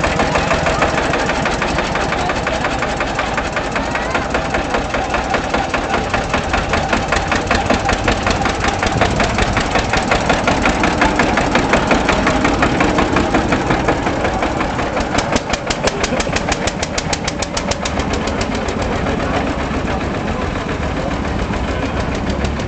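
Svoboda DK15 vintage tractor engine running steadily with an even, rapid knocking beat, the beat sharpest about two thirds of the way through.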